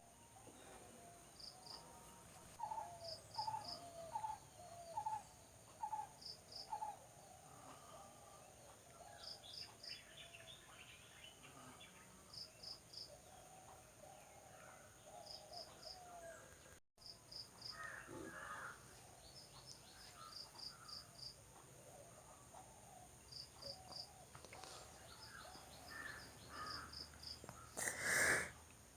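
Outdoor insect and bird sounds: a steady high insect hum, insects chirping in short groups of about three pulses repeated every second or so, and birds calling now and then. A brief louder noise comes near the end.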